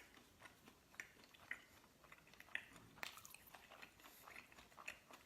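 Faint, close-up chewing and biting of food, with scattered small crunchy clicks.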